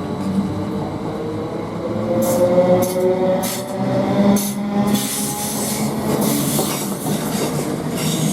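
Class 321 and Class 322 electric multiple units pulling away and accelerating, with a whine whose pitch rises slowly. From about two seconds in, the wheels click over rail joints, and a rushing hiss builds near the middle.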